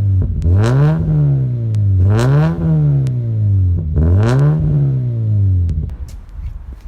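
Toyota 86's flat-four boxer engine revved through a freshly fitted Invidia stainless exhaust: three quick blips, each rising in pitch and falling back to idle about a second and a half apart, before the sound drops away near the end.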